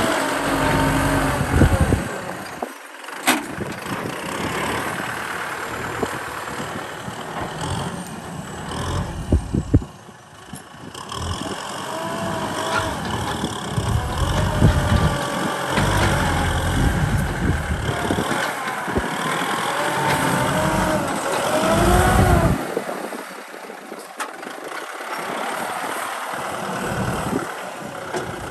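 Kubota M6040 tractor's diesel engine running under work, its pitch rising and falling as it is revved up and eased off.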